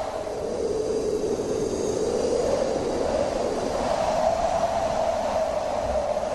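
Wind howling steadily, a hollow moaning note that sinks in pitch about a second in and slowly rises again, over a background hiss.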